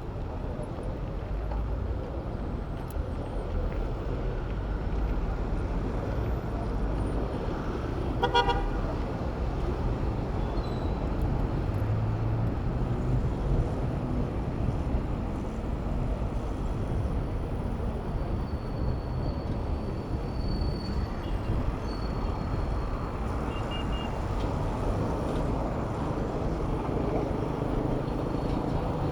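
Steady road traffic noise heard from a bicycle riding in city traffic, with a short vehicle horn toot about eight seconds in.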